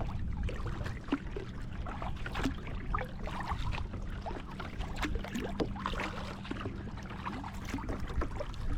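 Water trickling and dripping around a kayak on a river, with many small splashes and light knocks, over a steady low rumble.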